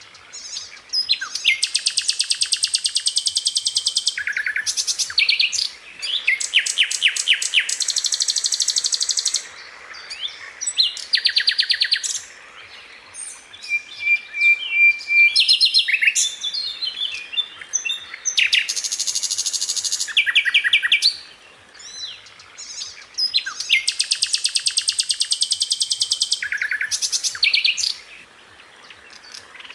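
Sikatan londo flycatcher singing: fast rolling trills of rapid repeated high notes, in phrases of one to three seconds with short pauses between, mixed with sharp single calls.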